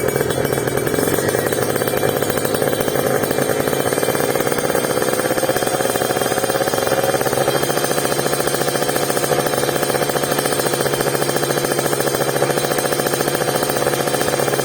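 Motorcycle engine running through a Creampie ZZ1 aftermarket exhaust, a steady rapid exhaust pulse. The pitch rises slightly a few seconds in as the revs come up a little, then holds steady.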